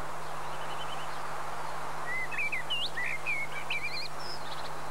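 Songbirds chirping and warbling in short phrases, thickest from about two seconds in, over a steady hiss and a low hum.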